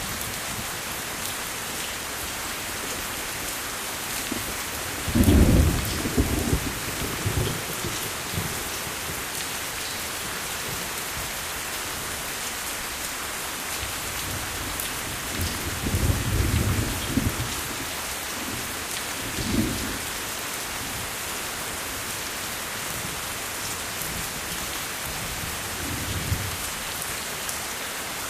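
Steady heavy rain with thunder rumbling through it: a loud roll about five seconds in, another around sixteen seconds followed by a shorter one, and a fainter one near the end.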